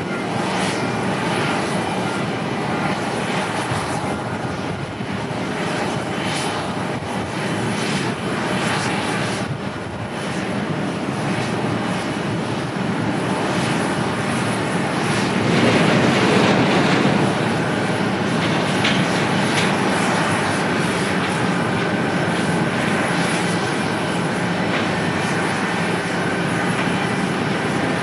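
Airliner jet engines on landing approach, a steady roar that swells to its loudest about halfway through and then eases slightly, with a thin steady whine in the later part.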